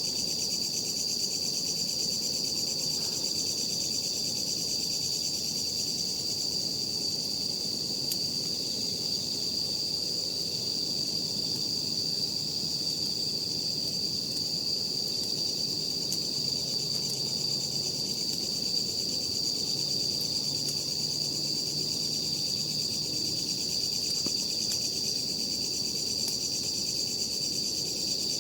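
Insects trilling steadily in one constant high-pitched tone that never breaks, over a faint low background rumble.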